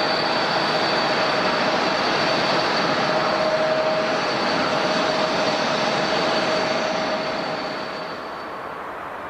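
Airliner engines running loud and steady, a rushing noise with a low hum and a high whine, fading away over the last couple of seconds.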